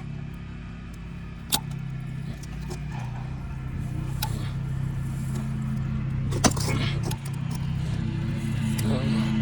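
Metal parts and tools being handled while a coolant hose and its clamp are refitted: light clinks and rattles, with a sharp click about a second and a half in and another about six and a half seconds in, over a steady low hum.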